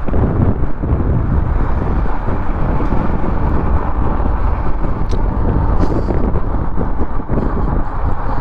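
Steady rush and rumble of wind buffeting a helmet-mounted GoPro's microphone while riding an electric fat bike at speed on the throttle.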